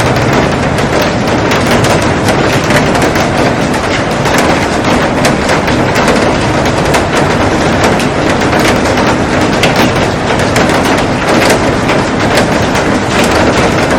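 Heavy rain drumming on a glass roof and garden: a dense, steady patter of countless drop impacts.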